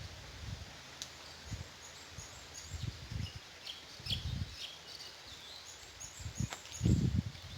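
A flock of white-eyes (pleci) giving many short, high chirping calls, scattered and overlapping. Low rumbling bumps come underneath, loudest near the end.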